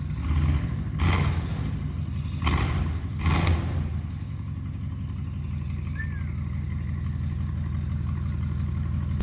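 Mercedes-AMG C63's 4.0-litre twin-turbo V8 idling and blipped four times in quick succession in the first few seconds, then settling back to a steady idle.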